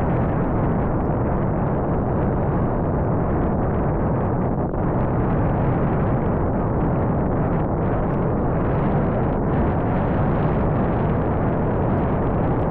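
Wind buffeting the microphone: a steady, loud low rumbling noise with no let-up.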